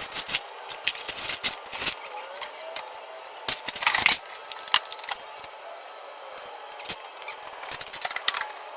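Irregular clicks, knocks and clatter of junk, parts and tools being handled and moved about, with the loudest clatter about four seconds in.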